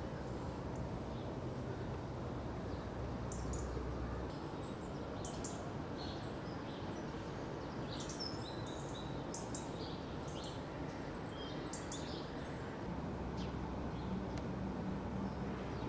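Small birds chirping in short, high calls over a steady low background rumble. The chirps are busiest from about three to twelve seconds in.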